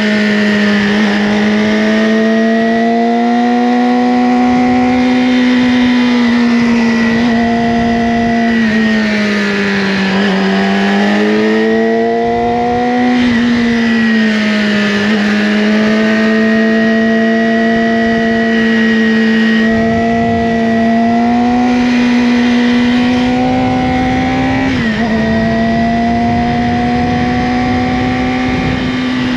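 Yamaha R6's inline-four engine through an Akrapovic slip-on exhaust, running at a steady high pitch under riding. The pitch falls and climbs back around ten seconds in, with a few short dips later on.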